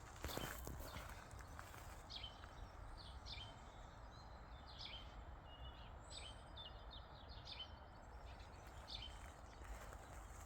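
Small birds singing and calling in short, high chirps, over a steady low outdoor rumble, with a brief louder rustle about half a second in.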